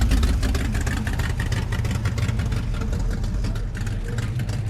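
Car engine idling, a steady low running sound with rapid, even exhaust pulses.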